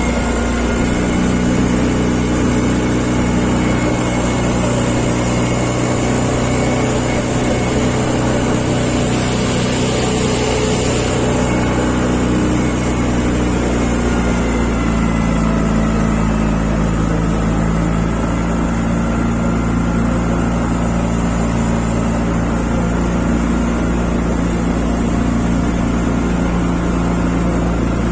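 An engine running steadily with an even drone, its pitch shifting slightly about halfway through.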